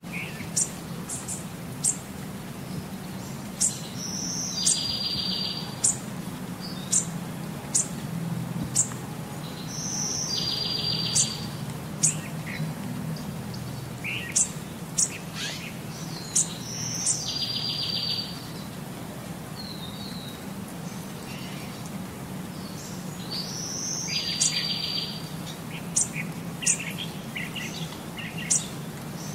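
Bird calls: scattered sharp, high chirps and a short buzzy trill repeated about every six or seven seconds, over a steady low hum.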